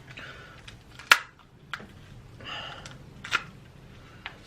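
Close-miked eating sounds: soft chewing and handling, with two sharp clicks, the louder about a second in and another near the end.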